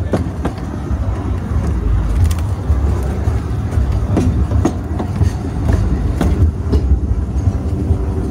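Narrow-gauge railway coach rolling along the track: a steady low rumble with irregular clicks as the wheels pass over rail joints and a set of points.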